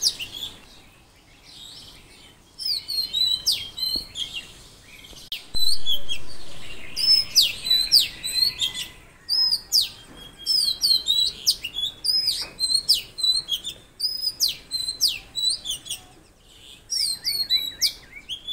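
Songbirds singing: rapid runs of short, high chirps and quick down-slurred whistled notes, repeated phrase after phrase with brief lulls.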